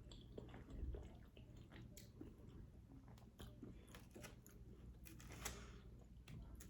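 A person chewing and biting food close to the microphone, heard as faint, scattered wet clicks and small crunches.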